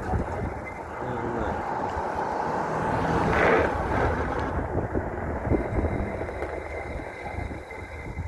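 A 5000-watt electric bike being ridden at speed: wind buffeting the microphone and tyre rumble, with a faint steady whine in the second half, loudest about three and a half seconds in.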